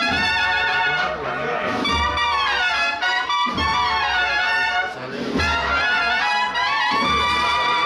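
Holy Week procession band playing a slow processional march: trumpets and trombones carry a sustained, gliding melody over deep beats that come about every second and a half.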